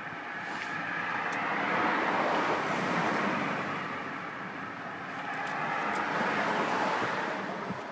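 Road traffic passing by: two cars go by in turn, the first loudest about two seconds in and the second about six or seven seconds in.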